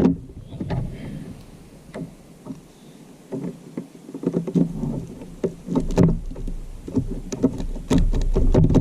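Irregular knocks, clicks and bumps of gear being handled against a plastic fishing kayak's hull, sparse at first and busier in the second half, where a low rumble also comes in.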